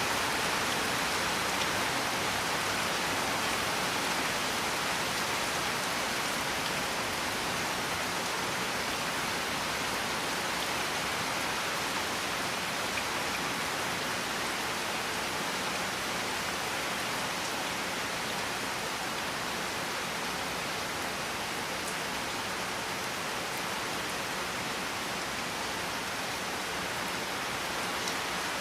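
Steady rain falling, a dense, even hiss of drops without letup.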